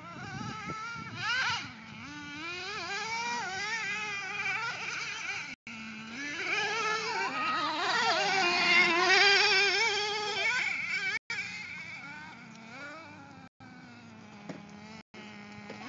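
RC truck's motor whining as it is driven, its pitch rising and falling with the throttle, loudest around the middle. The sound drops out briefly a few times.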